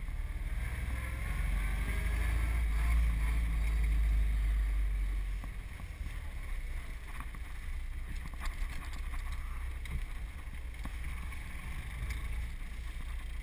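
Hopped-up four-cylinder engine of a 1929 Ford Model A coupe with twin Stromberg carburetors, heard from inside the cab as the car drives slowly, a low rumble. It is louder for the first few seconds, then drops to a quieter, steady run as the car slows.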